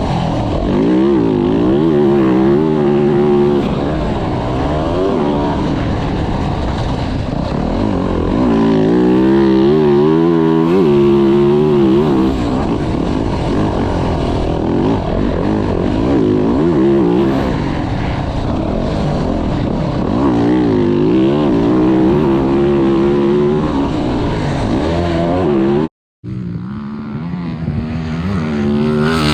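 2024 Yamaha YZ450F's single-cylinder four-stroke 450 cc engine revving up and falling back over and over as the dirt bike is ridden round a motocross track. The sound cuts out briefly near the end.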